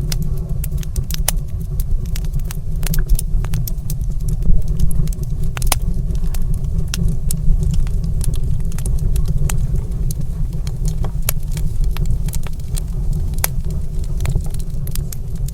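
Wood fire crackling in a fireplace, with frequent sharp, irregular pops over a steady low rumble.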